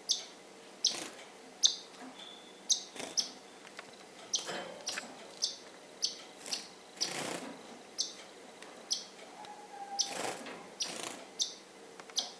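Small pet birds chirping: short, sharp chirps repeating about once or twice a second.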